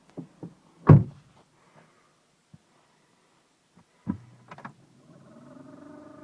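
A car door shuts with a heavy thump about a second in, followed by a few clicks and another knock. About five seconds in, the Skoda Yeti's 1.2 TSI turbocharged four-cylinder petrol engine fires on a cold start at −24 °C and runs with a steady hum, the pitch rising slightly as it settles into fast idle.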